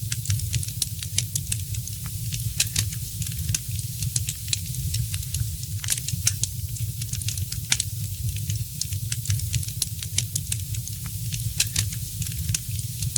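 Wood fire crackling: frequent sharp, irregular pops and snaps over a steady hiss and a low rumble of burning.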